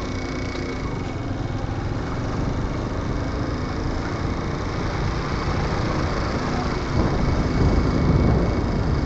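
Wind and road noise on a moving motorcycle, a steady rushing rumble that swells louder about seven seconds in.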